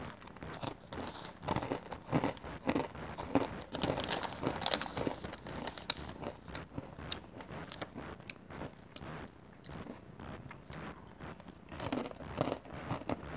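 Someone chewing a mouthful of caramel-coated popcorn and pretzel pieces: a dense, irregular run of crisp crunches and mouth sounds.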